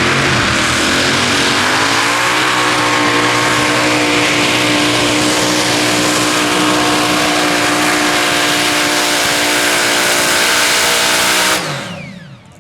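A pulling tractor's engine at full throttle during a pull. The pitch climbs over the first two seconds and then holds high and steady. Near the end the throttle is suddenly cut and the engine runs down.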